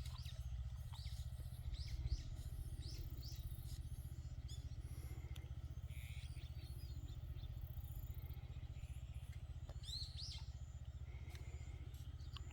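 Engine of the mulching machine running steadily with a low, even rumble while plastic mulch is laid. Small birds chirp over it in short, quick notes, several near the start and again about ten seconds in.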